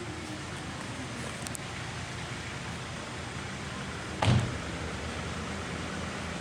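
Hyundai i30's engine idling steadily, with one loud thump a little over four seconds in.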